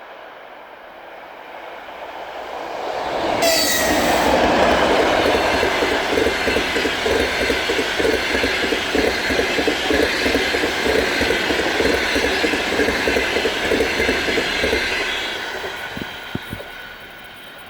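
EP2K electric locomotive and its passenger coaches passing at speed. A high tone drops sharply in pitch as the locomotive goes by, a few seconds in. Then the coaches roll past with a steady rhythmic clicking of wheels over rail joints, and the sound fades away near the end with a last few clicks.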